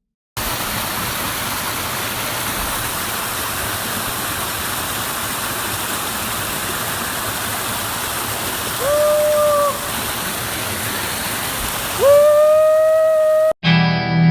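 Steady rushing hiss of a waterfall. Two whistle blasts sound over it, each with a quick upward slide at the start: a short one about nine seconds in and a longer, louder one near the end. The sound then cuts off abruptly.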